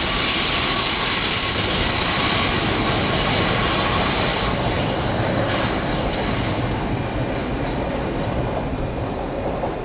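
Heathrow Express electric train pulling out, its wheels squealing high on the rails over a rumble of wheels on track. The squeal is strongest in the first few seconds, then the sound fades as the train moves away.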